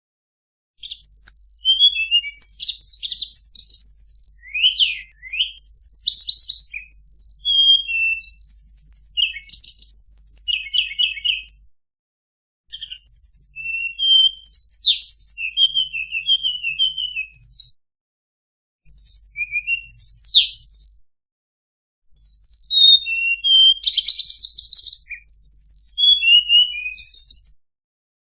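A songbird, the one called tledekan in Indonesian, singing a fast, varied string of chirps, buzzy trills and sweeping whistles in phrases, with short pauses about 12, 18 and 21 seconds in.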